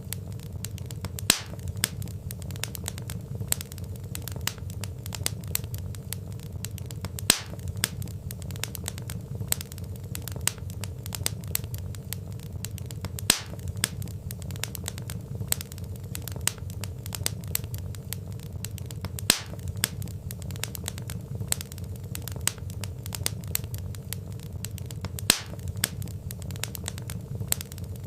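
Wood fire crackling: a steady low rumble with constant small crackles, and a sharper pop from the logs about every six seconds.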